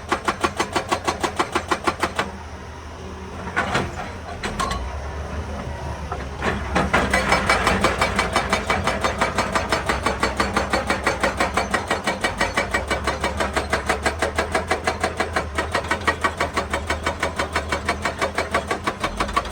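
Hydraulic breaker hammer on a Hitachi EX200 excavator pounding rock at about five blows a second. It stops about two seconds in, leaving the excavator's engine running with a couple of single knocks, and starts hammering again around seven seconds in.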